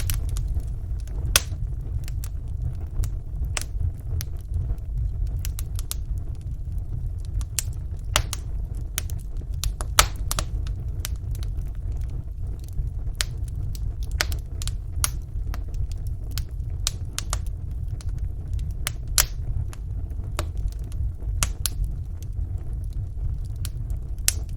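Wood fire burning in a fireplace: a steady low rumble of the flames with frequent small crackles and sharp pops at irregular intervals.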